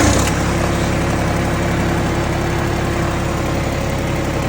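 Kubota L3301 tractor's three-cylinder diesel engine, just caught, idling steadily. It runs again now that a loose battery cable, which had arced and stopped it from starting, has been tightened.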